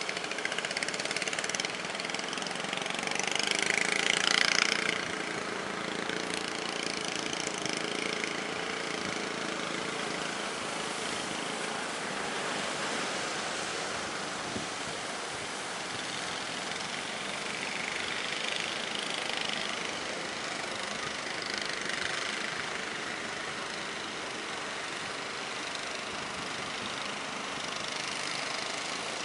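Boat engine running under a steady rush of water and wind, with a louder surge of rushing noise about four seconds in.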